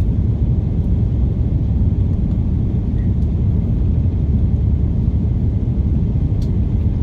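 Steady low rumble of an Airbus A330's engines and airflow heard from inside the passenger cabin.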